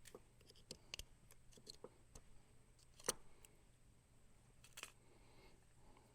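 Faint clicks and taps of pressure-washer hose fittings being handled, the sharpest about three seconds in and another near five seconds, over near silence.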